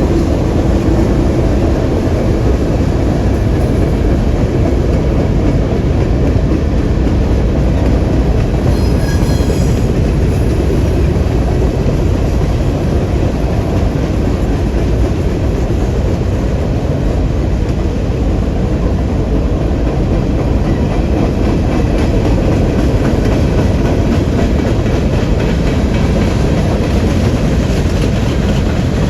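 Freight train rolling past at steady speed, a continuous heavy rumble with the clatter of wheels over the rail joints, and a brief high-pitched squeal about nine seconds in.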